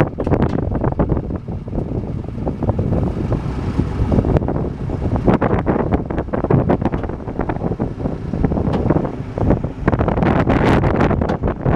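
Strong wind buffeting the microphone in irregular gusts and crackles, over a low rumble from the 1984 International Harvester 1754 dump truck. The wind is louder toward the end.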